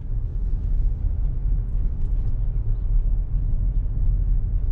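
Steady low rumble of a car driving, road and engine noise heard from inside the car.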